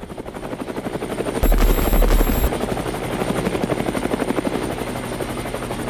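Helicopter sound effect: rotor blades chopping in a fast, even pulse that builds, with a heavier low rumble for about a second, roughly a second and a half in.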